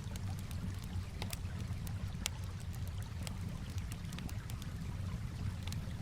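Campfire crackling, with scattered sharp pops and snaps, over a steady low wash of calm water lapping.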